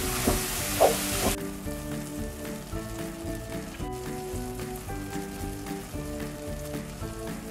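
Grated courgette sizzling in a nonstick frying pan while a wooden spatula stirs it, with a few knocks of the spatula against the pan; the sizzle cuts off suddenly about a second and a half in. Light background music plays throughout.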